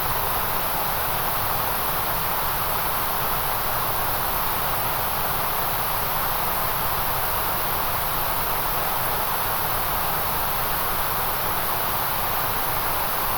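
Steady white-noise hiss at a constant level, with no breaks or changes. It is strongest in a band around the middle and at the very top, and thinner just below the top.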